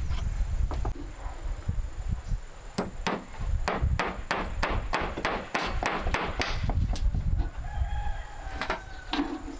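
A run of about a dozen sharp chopping strokes, about three a second, then a chicken calls once briefly near the end.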